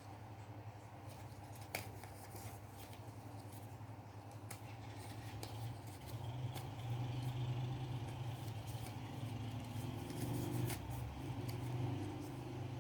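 Scissors snipping paper and paper being handled, a series of scattered sharp snips and rustles over a steady low hum.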